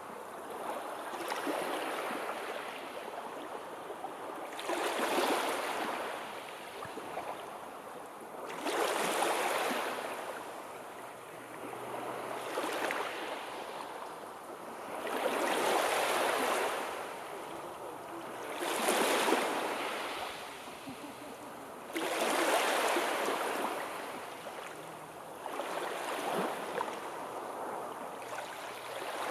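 Sea waves washing ashore, about eight swells rising and falling in turn, each surge of surf a few seconds long.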